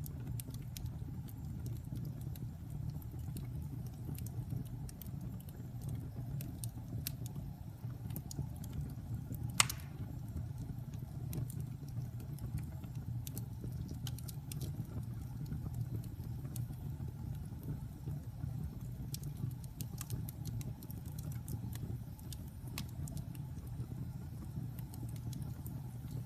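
Fire burning in a fireplace: a steady low rumble with scattered crackles and one loud pop about ten seconds in.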